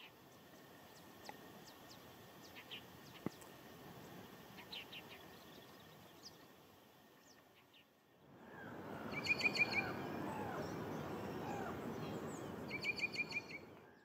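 Wild birds calling: scattered short high chirps, then two quick rapid-fire series of sharp chips about three and a half seconds apart, over steady background noise.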